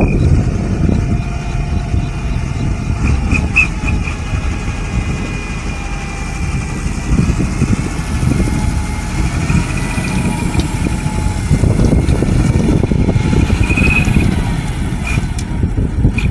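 Hydraulic excavator's diesel engine running steadily, a dense low rumble, with faint high-pitched squeals now and then.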